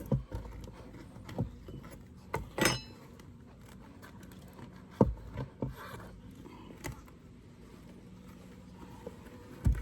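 Scattered knocks and clicks, with one short scrape, as wooden hive frames and a metal hive tool are handled in an open horizontal beehive, over a faint steady hum.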